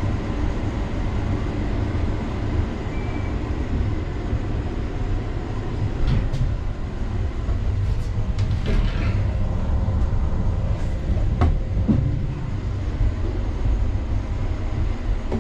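Indian Railways passenger coach heard from inside the compartment: a steady low rumble of the train running on the track, with a few sharp clicks and knocks in the second half.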